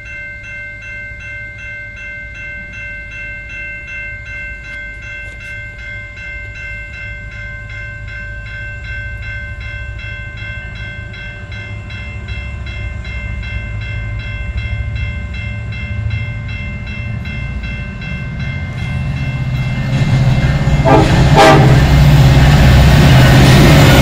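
Canadian National SD70M-2 freight locomotives, with EMD two-stroke V16 diesels, approaching and passing close by. A rapidly repeating warning bell rings over a low engine rumble at first and fades out about halfway. The engines and train noise then build steadily and get loud in the last few seconds as the lead units reach the microphone.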